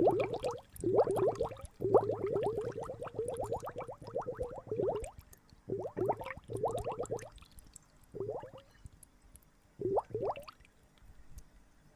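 Water gurgling and bubbling in bursts: quick runs of rising, glugging sounds with short pauses between, thinning out toward the end.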